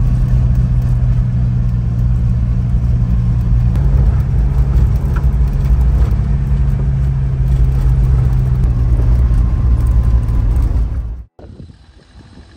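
Old Land Rover Defender engine running under way, heard from inside the cab as a loud, steady low drone whose pitch steps a little a couple of times. It cuts off abruptly about 11 seconds in.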